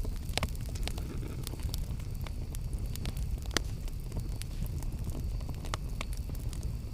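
Campfire burning, with a steady low rumble under frequent sharp crackles and pops; two pops stand out, about half a second in and about three and a half seconds in.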